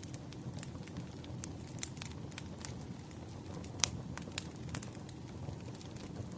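Wood campfire crackling: a steady low rumble of flames with irregular pops and snaps, the sharpest pop a little under four seconds in.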